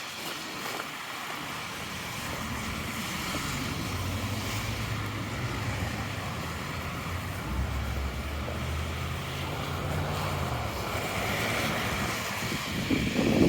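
A motor vehicle's engine passing close by, a low hum that builds about three seconds in and fades again near the end, over a steady background of city traffic.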